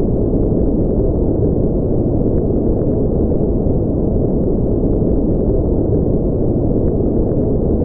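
Steady synthetic sleep noise, a deep, dull rumbling hiss with no high hiss in it, unchanging throughout.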